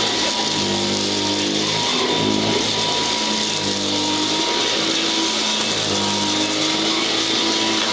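Royal Model 608 upright vacuum cleaner running without a break: a loud rushing of air with a steady whine over it, and a lower hum that shifts in pitch from moment to moment.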